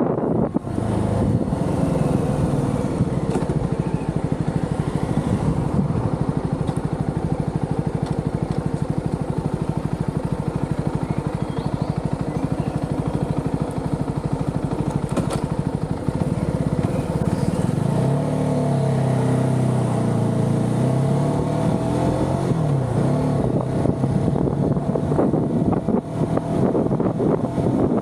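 Motorcycle engine running while riding, with wind on the microphone; the engine pitch rises and falls for a few seconds past the middle as the revs change.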